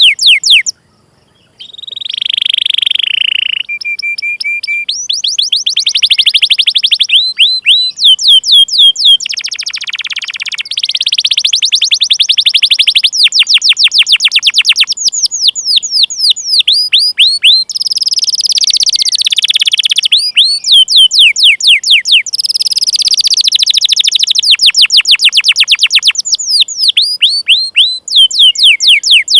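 Domestic canary singing continuously: fast runs of repeated sweeping 'cuit cuit' chirps alternating with buzzy rolling trills, with a short break about a second in.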